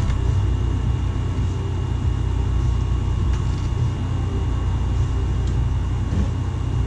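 Steady low rumble with a thin, steady high whine above it, and a few faint clicks.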